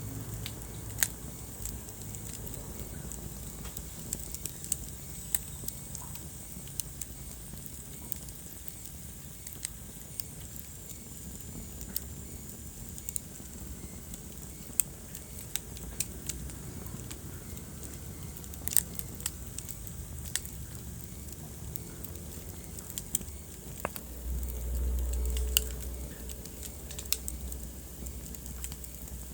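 Wood fire in a fireplace crackling, with irregular sharp pops over a low steady rumble of the flames. Near the end the low rumble swells louder for about two seconds.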